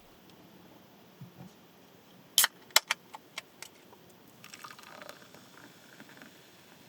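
A run of sharp clicks and clacks from small hard objects being handled: about six in a second and a half, the first two loudest. A brief rustle follows.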